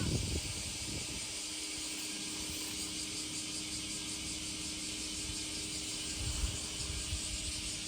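Steady outdoor summer ambience: an even high hiss with low, uneven wind rumble and a faint steady hum underneath.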